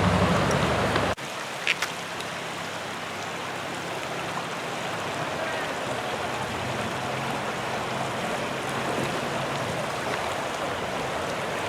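Steady rush of flowing river water. In the first second a louder low rumble runs, then cuts off abruptly, and two short knocks follow just after.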